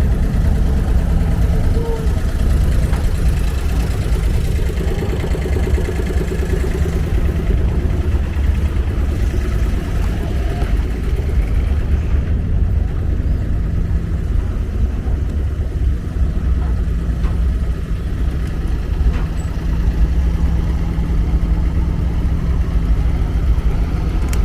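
Abra ferry boat's engine running steadily, a constant low drone.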